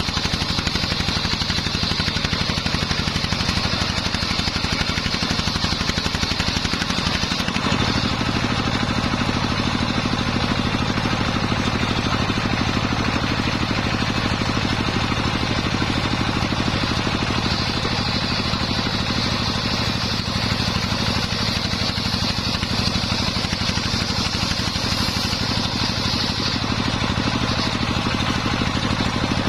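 Engine-driven homemade circular saw rig running steadily, with a high whine that comes and goes as the blade cuts through waru wood. The whine is heard in the first several seconds, then again for about nine seconds past the middle, and returns at the very end.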